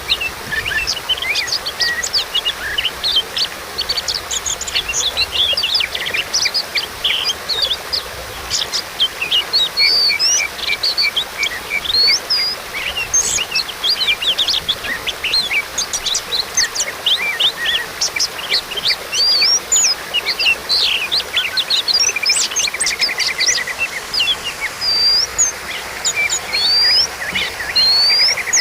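Oriental magpie-robin (kacer) singing without a break: a fast, varied stream of clear whistles, upslurs and chirps, laced with mimicked phrases of other birds. A short rattling trill comes about three-quarters of the way through and again at the very end.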